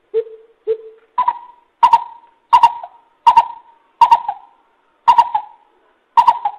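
Coucal (bubut) hooting: two lower hoots, then a run of seven louder, higher hoots that slow slightly toward the end.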